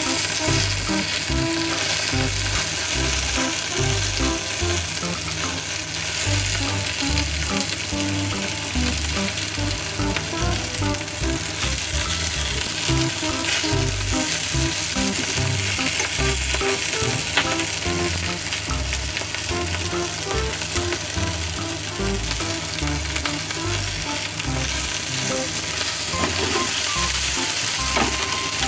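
Chunks of Japanese long green onion (negi) and green pepper sizzling steadily in a frying pan while being turned with chopsticks, with a few sharp ticks along the way.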